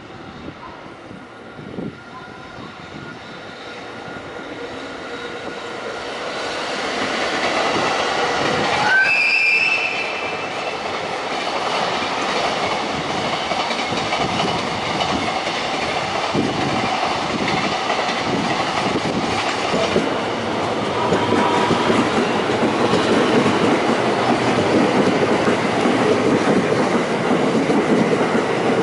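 EF65 electric locomotive and its container freight train running past, the rumble and clatter of the wagons over the rail joints growing louder over the first eight seconds and then holding steady. A brief high note sounds about nine seconds in, and near the end a local electric passenger train comes in alongside.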